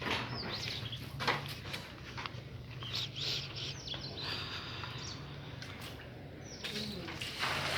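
Small birds chirping in short, quick calls, over a low steady hum.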